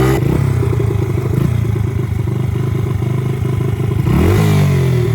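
Chinese pit bike's small single-cylinder engine idling with a pulsing beat, then revved sharply about four seconds in and falling back near the end.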